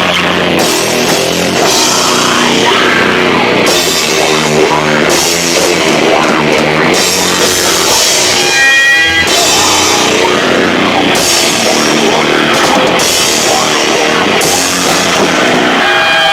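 Live heavy rock band playing very loud: distorted electric guitars, bass and drum kit with crashing cymbals, overloading a camcorder's built-in microphone. Just before the end the drums stop and the guitars are left ringing.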